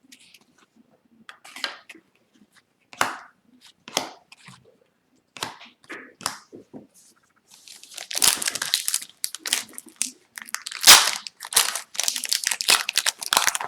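Cards being handled with a few separate clicks and snaps, then an Upper Deck Series 1 hockey card pack torn open, its wrapper crinkling and crumpling densely from about eight seconds in.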